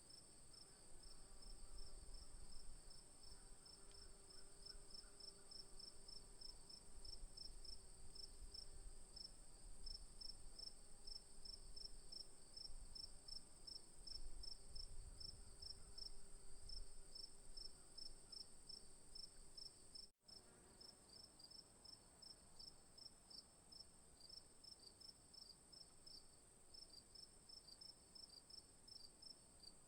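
Faint insect chorus, typical of crickets: a steady high trill with a pulsed chirping over it at about three chirps a second. The sound cuts out for an instant about twenty seconds in.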